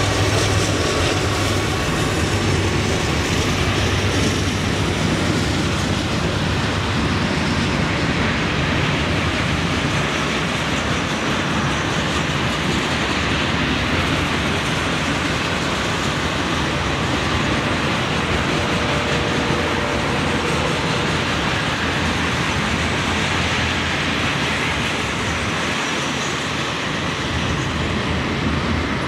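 Freight train passing close by. The second locomotive, a GE C44-9W diesel, runs past in the first seconds, then a string of tank cars rolls by with steady wheel-on-rail noise.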